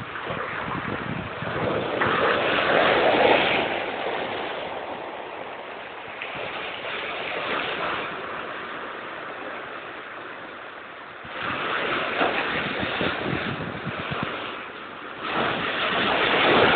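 Big sea waves crashing and surging: a constant wash of surf with loud surges about two seconds in, again about eleven seconds in, and near the end, the last two starting suddenly.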